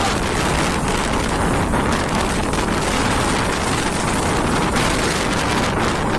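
Cyclone-force wind buffeting the microphone with heavy sea surf beneath it, a loud, steady rush of noise without let-up.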